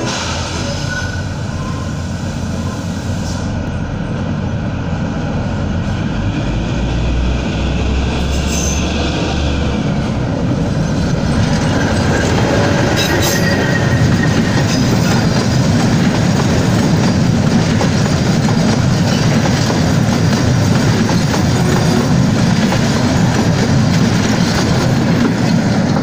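Kalka-Shimla narrow-gauge passenger train, diesel-hauled, coming out of a tunnel and passing at close range. The locomotive rumbles and the wheels squeal on the rails, then the coaches rattle and clatter past. It grows louder over the first half and then stays steady as the train goes by.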